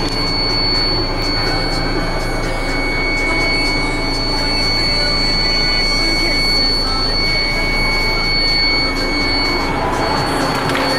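Diesel engine of a DAF CF85 truck running steadily, with a steady high-pitched whine over it that stops about ten seconds in.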